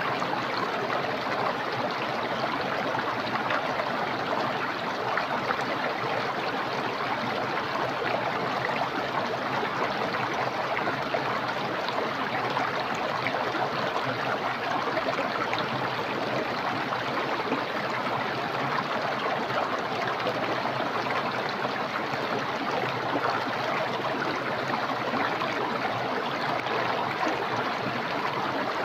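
Small, clear, swift-flowing stream rushing and gurgling over its bed, a steady unbroken wash of water.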